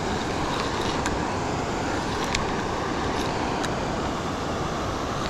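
Steady rushing roar of a waterfall, with a few faint clicks.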